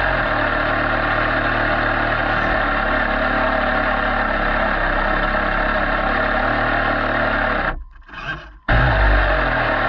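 Small model-boat engine running steadily and loudly, close enough to sound distorted. It cuts out for under a second about eight seconds in, then comes straight back at full level.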